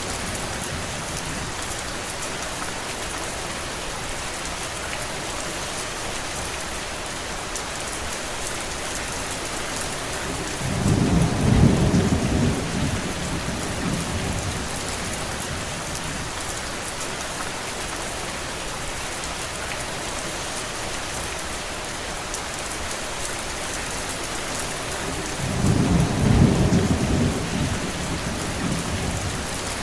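Steady rain falling, with two low rumbles of thunder: one about ten seconds in and another near the end.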